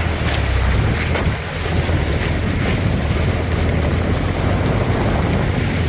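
A 4WD drives through a boggy, water-filled track: a low engine rumble under the sloshing and splashing of mud and water, with wind buffeting the microphone.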